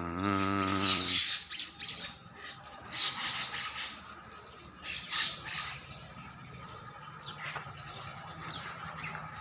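Birds squawking: clusters of short, harsh, high-pitched calls near the start, around three seconds in and around five seconds in, quieter after that. A low humming tone sounds under the first second.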